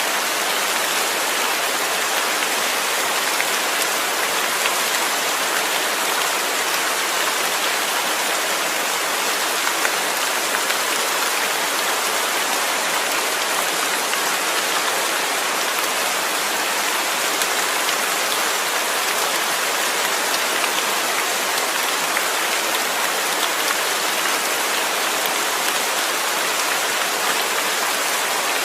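Steady rain falling on a surface, an even hiss of drops with faint scattered patters.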